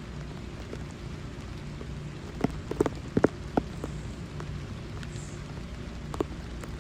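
Steady rain falling, with a handful of sharp taps clustered about halfway through and one more near the end.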